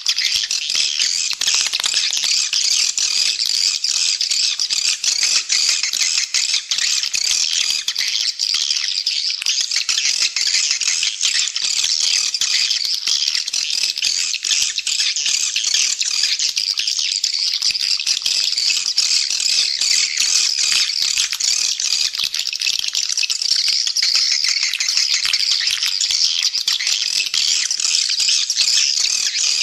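Dense, unbroken chorus of swiftlets twittering with fast rattling chirps. It is a swiftlet call recording of the kind played at swiftlet houses to lure the birds in to roost and nest.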